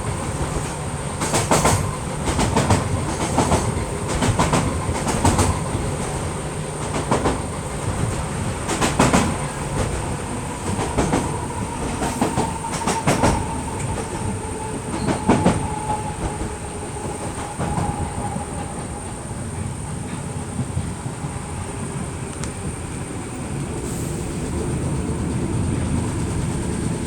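Merseyrail Class 508 electric multiple unit running along the line, heard from inside the carriage: a steady rumble with clusters of clicks as the wheels cross rail joints, mostly in the first half. A faint whine dips slightly in pitch midway through.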